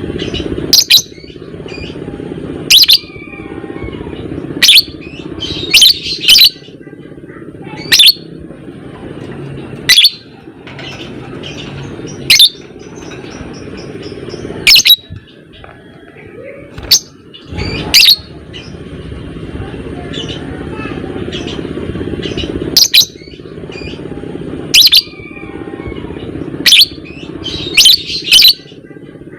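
Lovebird giving short, sharp, shrill calls about every two seconds, some in quick pairs, over a steady low background noise.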